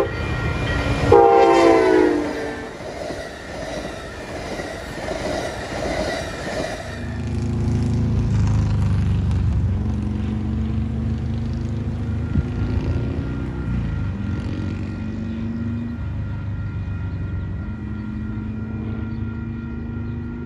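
Diesel locomotive horn: one blast cuts off at the start and another sounds about a second in, its pitch sliding down as the train passes. The train rumbles by, then a diesel engine drones low and steady, its pitch creeping up slowly.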